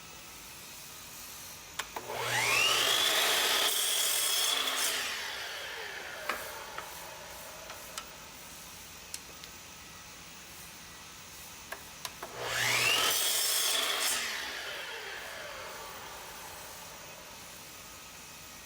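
An electric woodworking power tool is switched on twice. Each time its motor spins up to a high whine, runs for about two seconds, then winds down slowly after release. Light clicks come just before each start.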